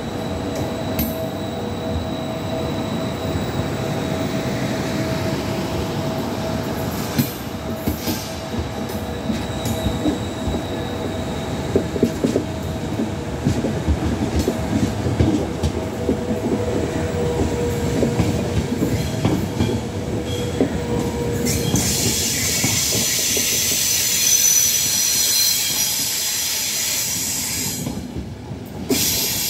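Trenitalia Intercity passenger coaches rolling past along the platform, a steady rumble of wheels on rail with faint whining tones. About two-thirds of the way in, a high squeal of wheels on rail rises and holds for several seconds, and the rumble drops away near the end as the train clears.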